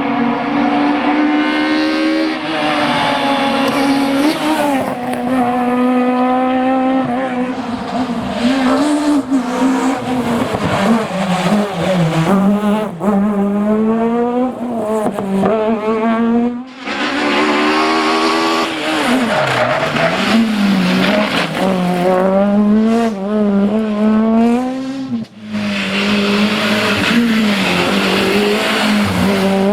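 Peugeot 206 Maxi S1600 rally car's naturally aspirated 1.6-litre four-cylinder engine driven flat out. Its pitch climbs repeatedly and drops back at each gear change and lift, with tyre squeal. There are brief breaks in the sound about 17 s and 25 s in.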